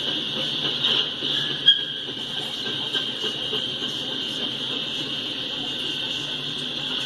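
Double-stack freight train's cars rolling past on the rails, a steady rumble with a steady high-pitched ringing over it and one sharp click about a second and a half in.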